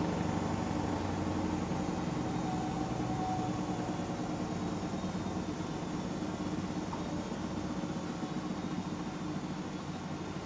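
Hotpoint washing machine running with a steady mechanical hum that slowly gets quieter, its lowest rumble dropping away about eight seconds in.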